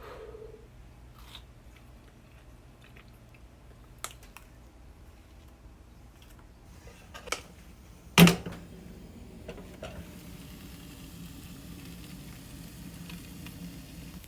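Eating and tabletop handling: scattered small clicks and taps, with one sharp knock about eight seconds in.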